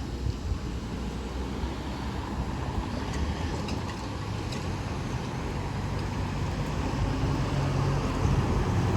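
Low, steady vehicle rumble that grows louder toward the end.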